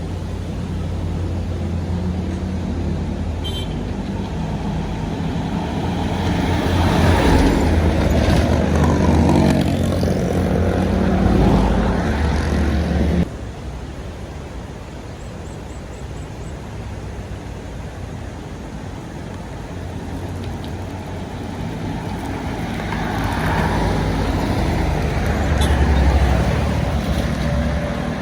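Heavy vehicles with diesel engines driving past one after another. The first swells up, loudest about 7 to 12 seconds in, and cuts off abruptly. A second builds to a peak near the end.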